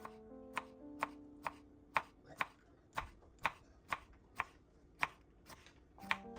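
Knife chopping on a cutting board in steady, even strokes, about two a second. Soft piano music sounds under the first couple of seconds and comes back near the end.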